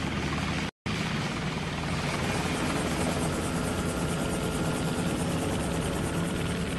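Helicopter running overhead: steady engine and rotor noise. The sound cuts out completely for a split second about a second in, then carries on unchanged.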